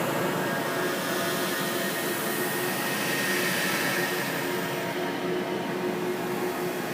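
Steady rushing drone, a scary ambient sound effect, with faint held tones drifting in and out.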